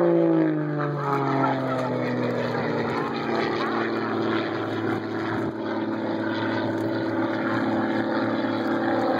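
Propeller airplane flying past, its engine note dropping in pitch over the first second or so as it passes, then continuing as a steady drone.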